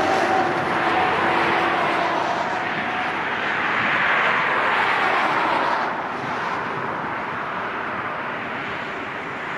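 Jet airliner's engines passing: a loud, steady rush of noise with faint whining tones that fade out over the first few seconds, the rush easing after about six seconds.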